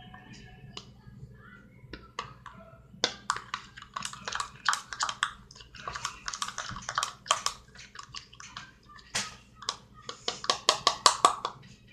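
A spoon stirring and scraping a thick paste of crushed cereal and water in a cup: a quick irregular run of clicks and scrapes starting about three seconds in.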